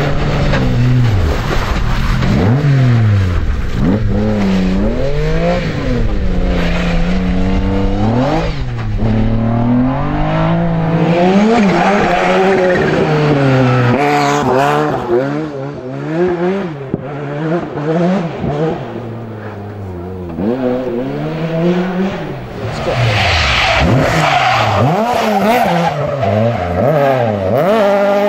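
Rally car engines at full throttle, the pitch climbing and dropping back again and again through gear changes and lifts off the throttle, with tyre noise from the cars sliding through the stage.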